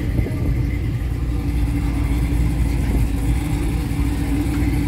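Car engine idling with a steady low rumble and hum.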